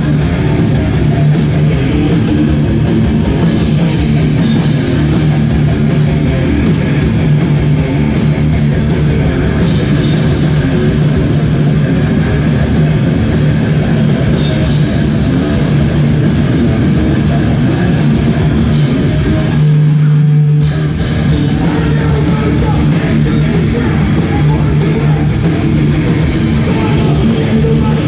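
Hardcore band playing live at full volume: distorted electric guitars, bass and a drum kit. Just after two-thirds of the way in, the band stops for under a second on a single held low note, then crashes back in.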